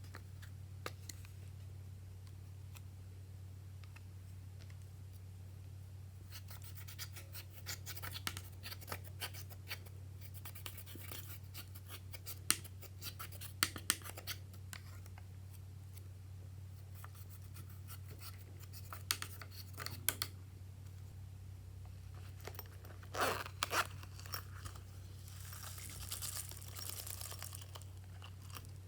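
Glossy slime being squeezed and stretched by hand, giving bursts of sticky clicks and crackles that start and stop, over a steady low hum.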